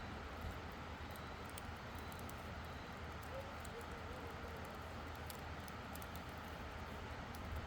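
Campfire crackling softly, with faint scattered pops over a steady low rumble.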